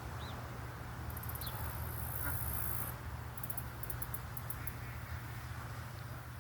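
An insect calls in a very high-pitched buzzing trill for about two seconds, then in a run of short separate pulses, over a steady low rumble.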